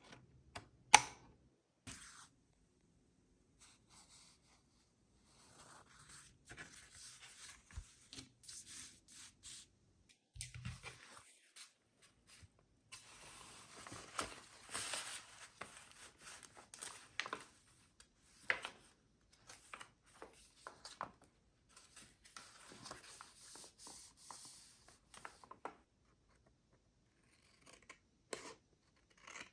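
Paper being handled and worked by hand: irregular rustling and scraping in bursts, with a sharp click about a second in.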